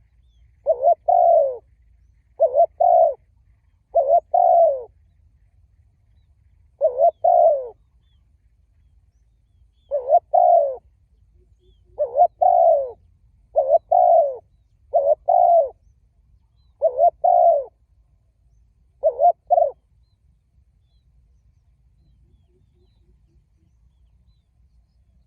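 Spotted dove, kept as a decoy caller, cooing: about ten short phrases of two or three low coos each, at irregular gaps of one to three seconds, stopping about three-quarters of the way through.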